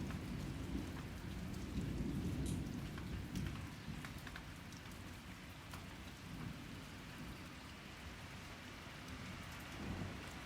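Rain falling steadily with scattered drips, under a low rumble of thunder that is loudest about two to three seconds in, dies down, then builds again near the end.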